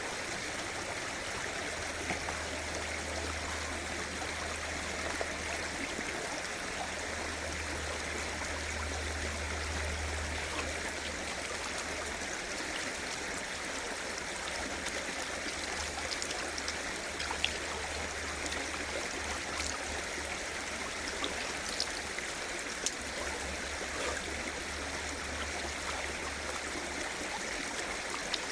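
Mountain stream flowing steadily, with a low rumble that comes and goes and a few faint clicks.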